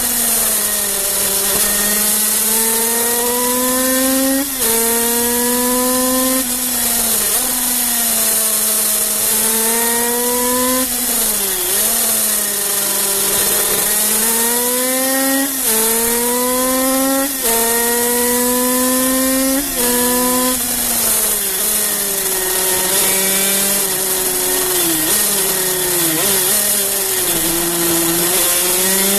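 Kreidler 50cc single-cylinder two-stroke racing engine heard from on board at full revs. Its high whine climbs in pitch through each gear and drops sharply at every upshift. It sags and climbs again as the bike slows for the corners and accelerates out.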